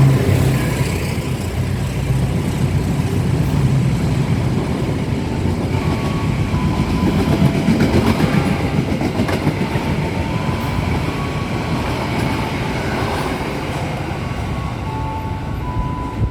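A train running through the station without stopping, its wheels clattering over the rail joints in a loud, steady rush that eases slightly near the end.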